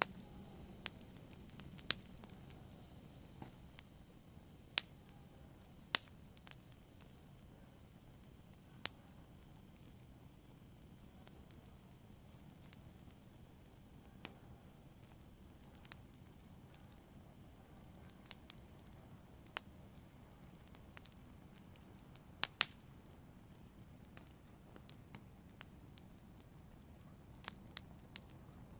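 Wood fire in a fireplace crackling softly: irregular sharp pops and snaps every second or two over a faint low hiss, with a close pair of louder pops about three quarters through and a quick run of snaps near the end.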